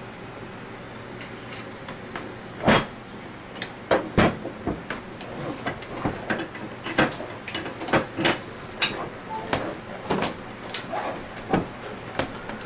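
Irregular clicks and knocks of hand tools and metal scroll-pump parts being handled, starting a little under three seconds in with the loudest knock, then a string of lighter taps and clatters.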